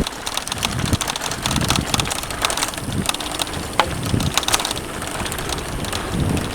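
Mountain bike riding over a rough dirt trail: tyres crunching on soil and stones, with a steady clatter of small knocks and rattles from the bike.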